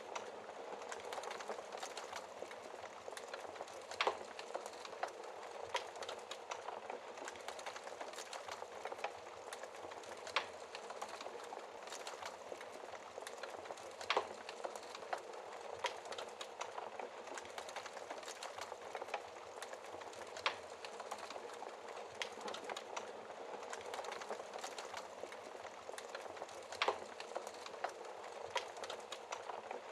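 Wood fire in a fireplace burning with steady dense crackling, broken by a few sharper, louder pops every several seconds.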